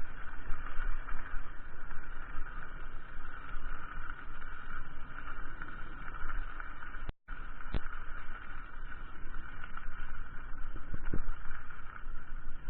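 Mountain bike being ridden: steady rough rumble and rattle from the wind and the terrain. The sound cuts out completely for an instant about seven seconds in, and there are two sharp knocks shortly after.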